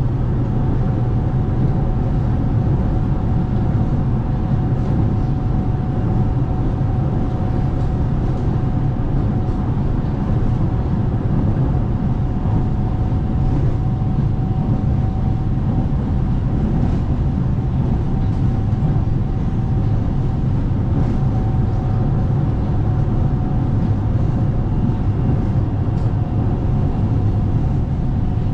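Dalian Metro Line 12 train running steadily between stations, heard from inside the passenger car: a constant rumble of the wheels on the rails with a thin steady whine over it.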